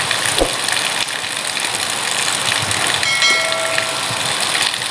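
Heavy rain pouring down in a steady hiss, with a brief faint tone about three seconds in.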